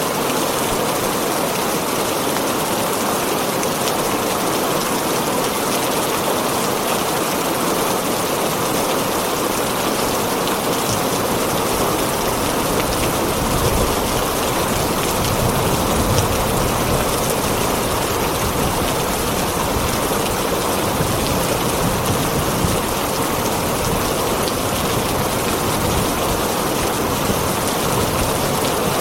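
Heavy, steady rain drumming on a tin roof, with a low rumble swelling underneath through the middle stretch.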